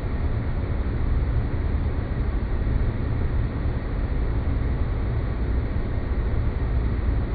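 Space-planet ambience sound effect: a steady, deep rumbling noise, heaviest in the bass and dull in the highs, with no changes or distinct events.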